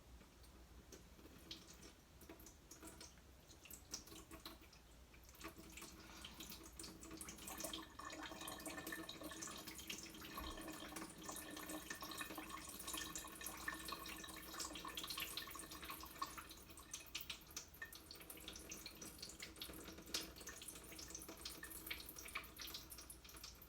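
Liquid running steadily into a sink, with drips and splashes. It is faint, builds up about five seconds in and eases off near the end.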